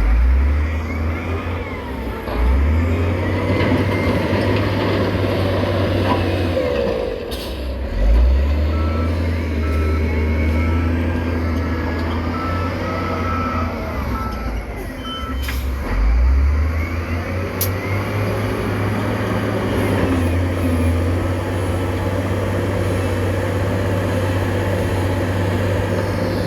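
Heavy diesel earthmoving machinery running, its deep engine note surging under load several times. A reversing alarm beeps steadily for several seconds in the middle.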